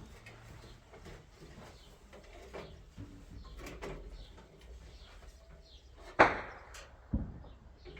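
Two sharp knocks about a second apart, roughly six seconds in, the first louder and ringing briefly, over faint low background noise.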